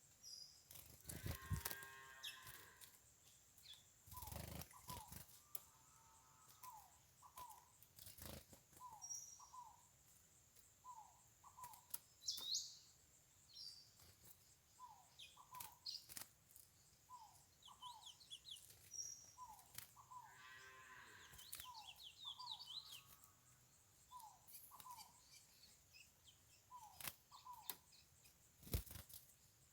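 Faint bird calls: a short repeated note about once a second, with scattered higher chirps over it, and a few sharp clicks. Two brief, fuller calls stand out, one about two seconds in and one around twenty seconds.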